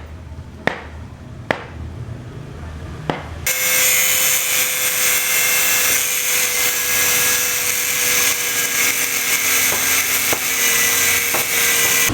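Three sharp knocks, then about three and a half seconds in a power tool starts abruptly and runs loudly and steadily, with a hissing, grinding noise over a steady whine.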